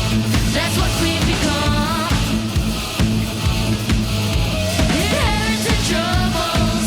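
Heavy metal band playing a full-band rock song: a singer over distorted electric guitars, bass and drums.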